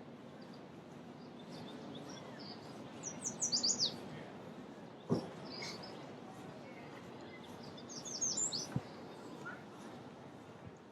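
A songbird singing twice, about four to five seconds apart: each phrase a quick run of high, downward-sliding notes. A single sharp knock comes between the two phrases.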